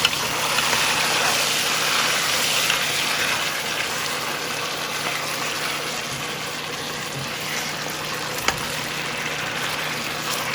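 Chicken pieces cooking in a hot pot, a steady sizzling hiss, with a sharp tick at the start and another near the end.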